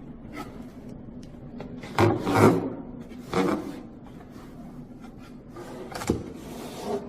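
Short rubbing and scraping noises, two louder ones about two and three and a half seconds in, then a sharp click and a softer scrape near the end, over a low steady hum.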